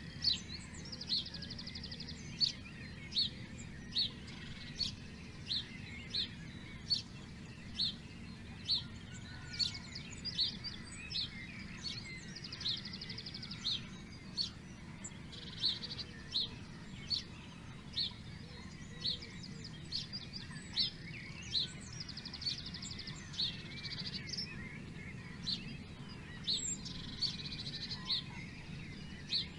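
Wild birds calling: a short high chirp repeated about once a second, broken by a few buzzy trills lasting a second or two, over a steady low rumble.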